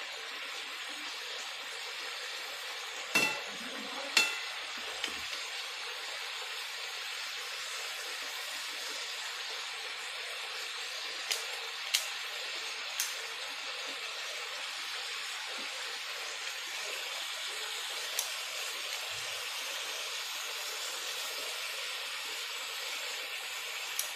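Chicken and whole tomatoes sizzling steadily in oil in a metal karahi, while a metal spatula stirs and now and then knocks against the pan. Two ringing clinks, about three and four seconds in, are the loudest, and a few lighter taps follow later.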